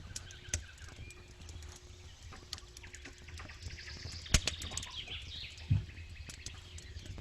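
Campfire crackling, with scattered small pops, one sharp pop a little past the middle, and a dull thump soon after.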